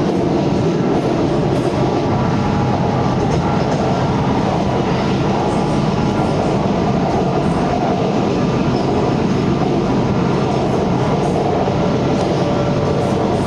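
Bangkok BTS SkyTrain running: a steady rolling rumble with faint, level whining tones above it.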